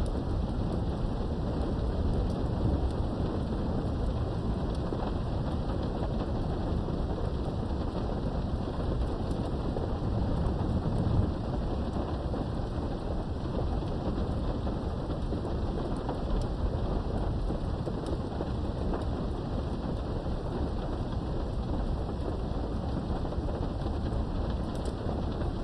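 Steady rain with low rumbling thunder underneath, swelling briefly about eleven seconds in.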